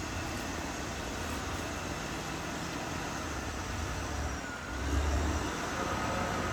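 Caterpillar D6R XL bulldozer's diesel engine running steadily under work, dipping briefly about four and a half seconds in and then coming back louder.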